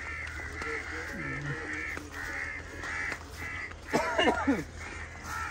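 Birds calling over and over, short calls about two to three a second, with a louder pitch-sliding call about four seconds in.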